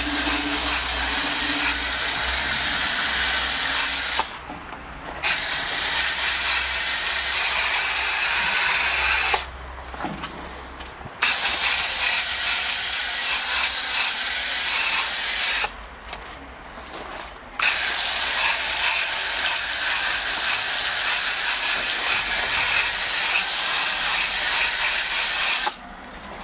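Cleaner being sprayed onto an air-conditioning condensing unit's coil: a steady hissing spray in four long bursts, broken by short pauses about 4, 10 and 16 seconds in.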